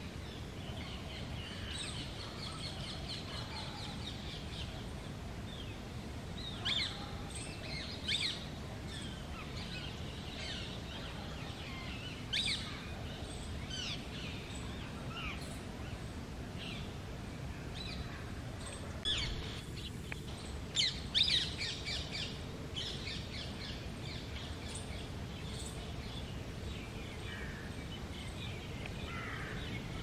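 Short, sharp bird chirps and calls come scattered through, thickest about two-thirds of the way in, over a steady low outdoor background noise.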